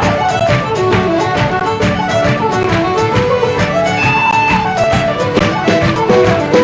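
Scottish traditional dance music with fiddle leading a fast tune over a steady beat.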